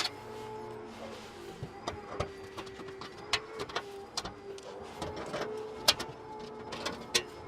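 A small electric tool motor whining in short runs, with scattered sharp clicks and knocks of metal, as the fasteners holding the metal plate under the Honda Accord's engine are taken out.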